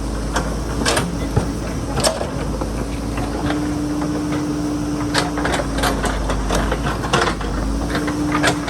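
JCB backhoe loader's diesel engine running steadily, its pitch rising for a couple of seconds a few seconds in and again near the end, with irregular sharp clicks and knocks throughout.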